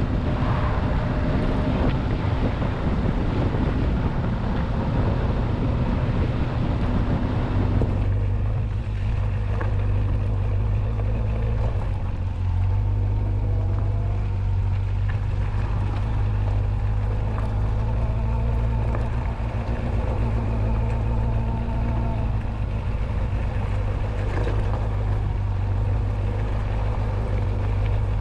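Motorcycle engine running steadily on the move, with heavy wind rush over it for about the first eight seconds. After that the wind drops and the engine's low, steady hum stands out.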